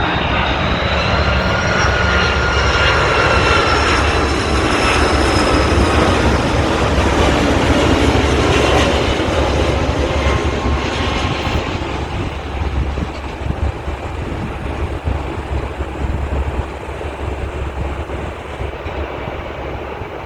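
Jet airliner's engines passing on landing approach: a loud rumble with whining tones that sink slowly in pitch as it goes by. The sound is loudest about eight seconds in, then fades.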